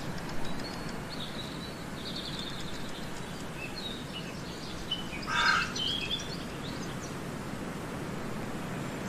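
Birds chirping over steady background noise, with one louder call about halfway through.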